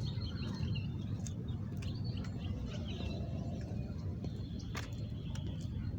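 Small birds chirping here and there over a steady low rumble, with a few faint clicks.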